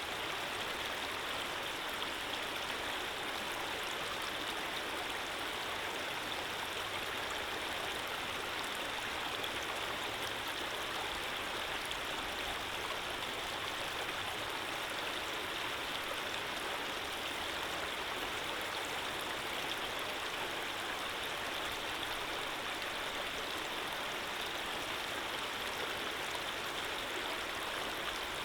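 Running water flowing steadily: an even, unbroken rushing hiss, like a stream.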